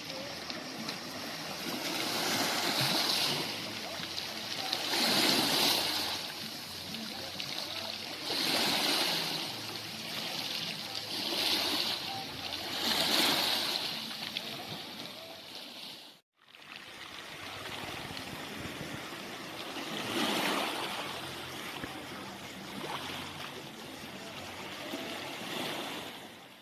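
Small sea waves washing onto the shore, each swelling and falling away every two to three seconds, with a brief cut-out in the sound about two-thirds of the way through.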